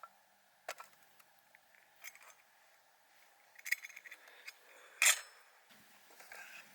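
Light clicks and small clinks of camp gear being handled, a quick run of them a little before four seconds in and one louder sharp clink about five seconds in.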